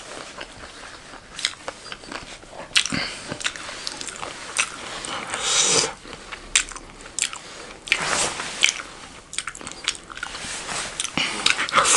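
Mouth sounds of biting into and chewing a steamed chicken momo dumpling dipped in chilli sauce, with many short wet clicks and smacks.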